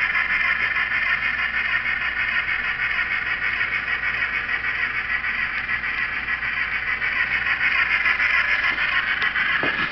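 N scale model steam locomotives running on the layout track: a steady high-pitched whir and squeal from the small motors and wheels on the rails. A brief falling sound comes near the end.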